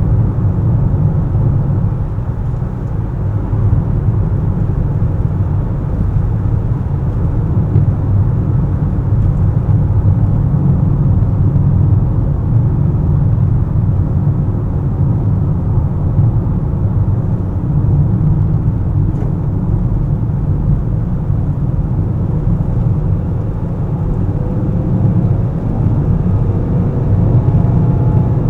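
A car driving, with a steady low rumble of road and engine noise. A faint rising whine comes in near the end.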